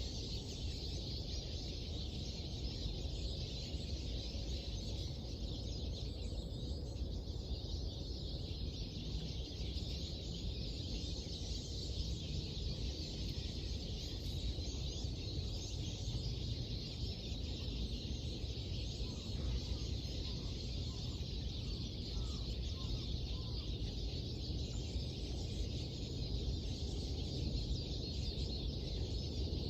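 Dawn chorus of many small birds chirping and singing at once over a steady low background rumble.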